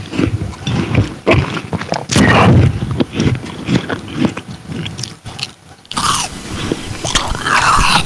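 Close-miked chewing and biting noises of people eating, irregular and loud, with a few short wordless vocal sounds near the end.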